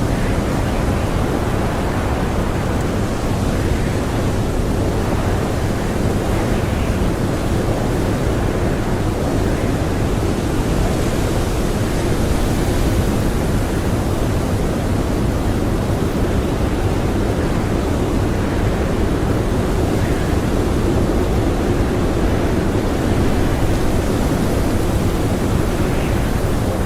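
Strong blizzard wind blowing steadily, a deep, even rushing noise with a slightly brighter hiss in the middle.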